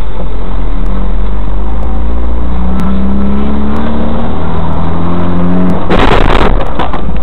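Car engine running, its pitch rising as the car speeds up, then a sudden loud crash lasting about half a second, about six seconds in.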